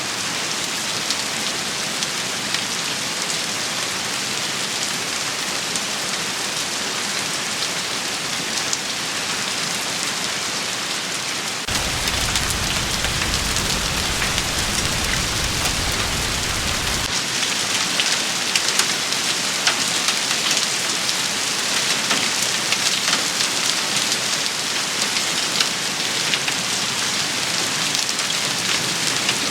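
Steady heavy rain shower falling on hard surfaces: a dense patter of many individual drops. About twelve seconds in, the rain gets louder and a low rumble joins for about five seconds. Stronger, sharper drop hits continue after the rumble ends.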